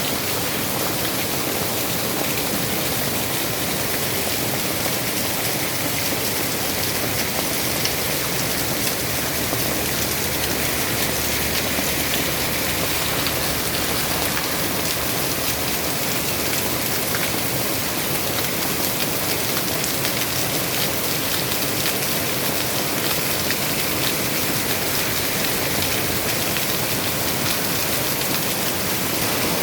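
Heavy rain falling steadily, a dense hiss of drops striking hard surfaces.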